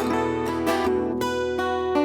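Solo acoustic guitar playing an instrumental break, with chords picked and strummed about twice a second.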